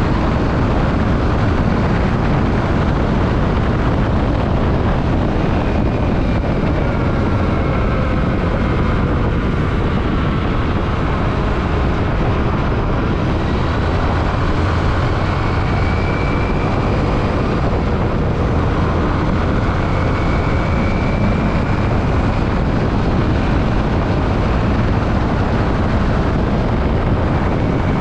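Yamaha WR155R single-cylinder dual-sport motorcycle on the move: a loud, steady rush of wind and road noise with the engine's note faintly underneath, its pitch sliding gently up and down.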